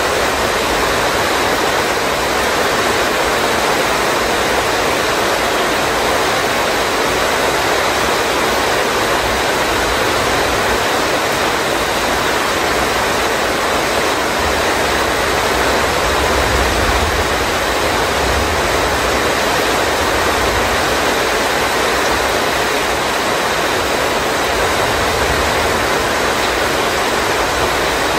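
Heavy rain pouring steadily on roofs and pavement, an even hiss with no let-up. A low rumble comes in about halfway through and lasts several seconds.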